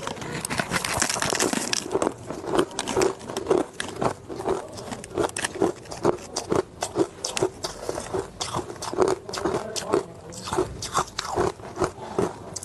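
Hard ice being bitten and chewed close to the microphone: a longer crackling bite at first, then steady crunches, about two a second.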